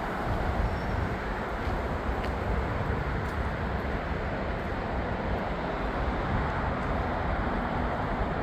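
Steady rumble and hiss of a moving vehicle or traffic, even throughout, with no distinct events.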